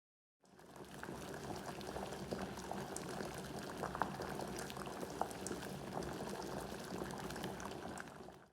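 Batter-coated quail eggs deep-frying in hot oil for kwek-kwek: a steady sizzle full of small sharp crackles and pops. It starts suddenly about half a second in.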